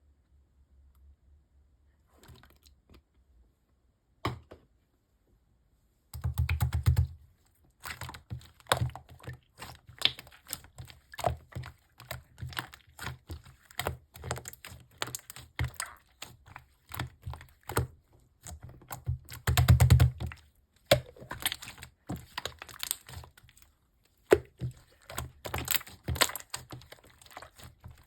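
Yellow slime being squeezed and worked by hand, making dense, irregular clicks and crackling pops. Two heavier pressing thuds come about seven seconds in and again near twenty seconds.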